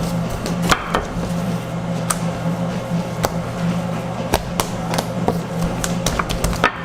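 Irregular sharp knocks, taps and clacks of food-preparation work, several a second and uneven in loudness, over a steady low machine hum.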